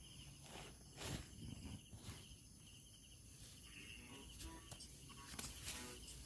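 Faint night insects, crickets trilling steadily, with a few soft knocks, the clearest about a second in.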